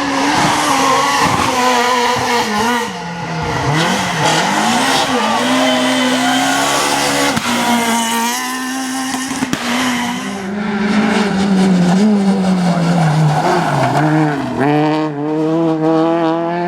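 Rally car engine revving hard, its pitch rising and falling again and again as the driver works the throttle.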